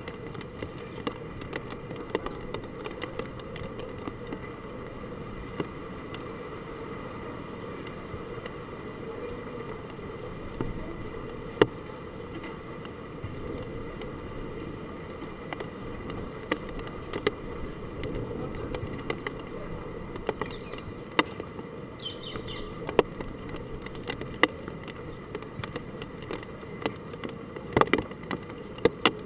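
Hard rain falling steadily, with scattered sharp taps of drops striking hard surfaces.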